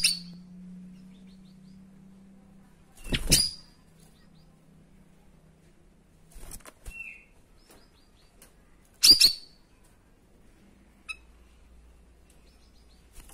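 Cucak rawis songbird giving short, sharp, loud 'shot' calls (tembakan), one about three seconds in and another about nine seconds in, with a few softer brief calls between them. A low steady hum runs under the first few seconds.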